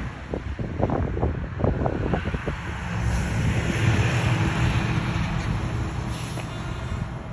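Jet airliner engines rumbling as the aircraft approaches to land, growing louder about three seconds in, with wind buffeting the microphone early on.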